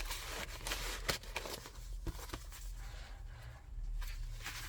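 Paper rustling and light ticks as the pages, envelope and cards of a thick handmade junk journal are handled and turned. The rustle is busiest in the first couple of seconds and quieter in the middle.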